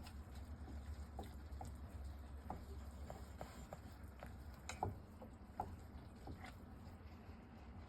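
Faint, scattered light taps and clicks over a low steady hum, with a sharper click a little under five seconds in: a kitten moving about inside a microwave oven.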